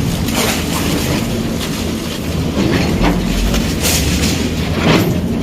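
Heavy earthmoving machine running steadily, with irregular clanks and knocks over the engine's low drone.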